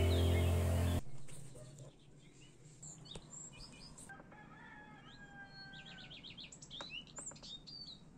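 Background music that cuts off about a second in, followed by faint outdoor birdsong: several small birds chirping and whistling, with a rapid trill near the end.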